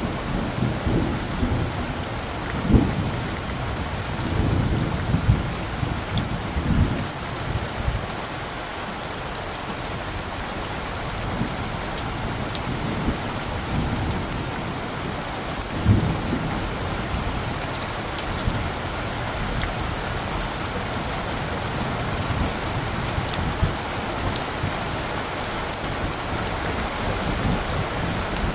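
Steady rain falling, with individual drops ticking close by. Low rolls of distant thunder run through the first several seconds, and a shorter one comes just past the middle.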